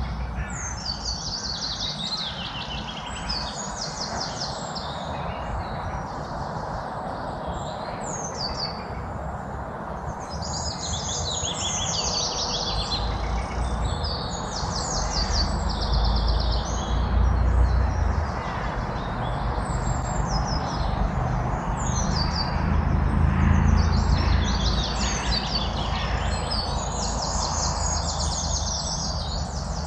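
A chorus of songbirds chirping and singing, with many quick, high, mostly falling notes overlapping. A steady low background rumble runs beneath them and swells twice in the middle.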